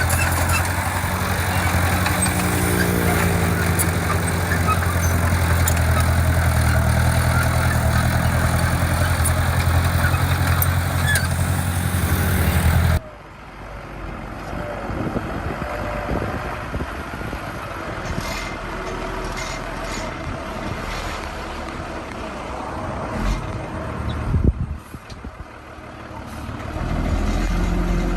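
Diesel engine of heavy earthmoving machinery running steadily and loudly. About halfway through the sound cuts abruptly to a quieter low engine rumble with a few scattered knocks, and the engine grows louder again near the end.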